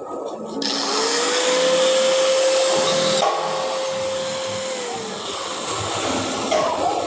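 Handheld electric power tool, likely an angle grinder used on steel tubing, switched on about half a second in. Its motor whine rises to a steady pitch with a loud hiss, then winds down about five seconds in.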